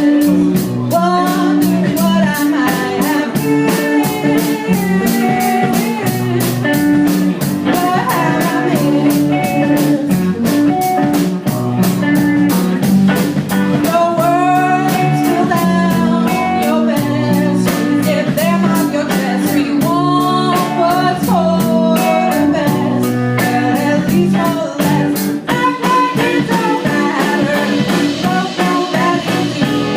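Live band playing a blues-tinged song: electric guitar (a Fender Telecaster through a Vibrolux amp), bass and drum kit with a steady beat, and a lead line that bends up and down in pitch.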